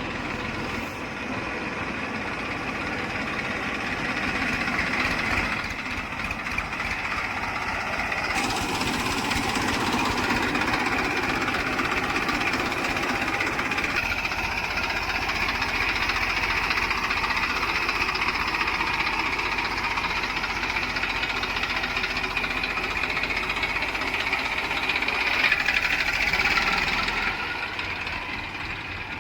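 Heavy diesel engine running hard and steadily under load. Its tone shifts about 8 and 14 seconds in and swells briefly near the end.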